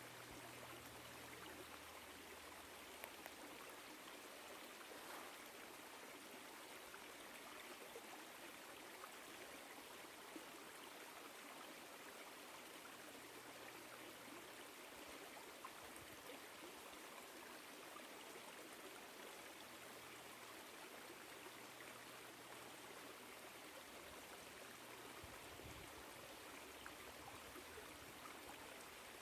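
Woodland stream flowing, a soft steady trickle and burble of water.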